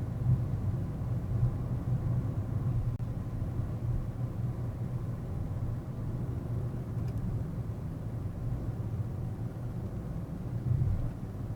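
Car on the move, heard from a dashboard camera inside the cabin: a steady low rumble of engine and road noise.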